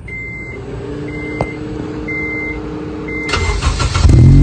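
An 8th-generation Honda Civic Si's dash chime beeps a few times, then the starter cranks briefly and the four-cylinder engine catches about four seconds in. It runs loud through a freshly fitted J2 Engineering cat-back exhaust.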